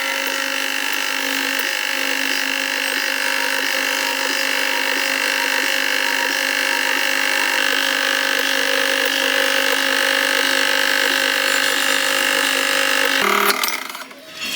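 A small electric power tool running steadily at constant speed, its steady whine cutting off abruptly about 13 seconds in.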